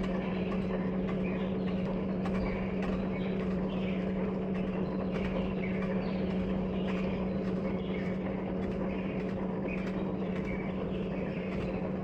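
Metal lathe running at a steady speed, a constant-pitched machine hum, with faint irregular scratchy squeaks above it.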